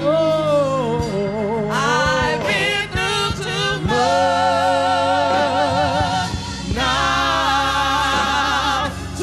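Gospel song: a lead singer holding long melismatic notes with vibrato, with backing voices, over a steady organ or keyboard and bass accompaniment.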